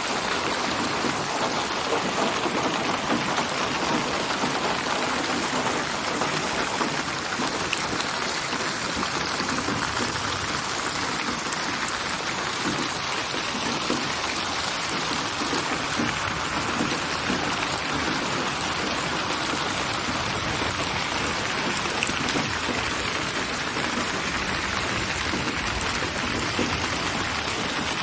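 Steady rain falling, an even hiss of many small drops that holds constant throughout.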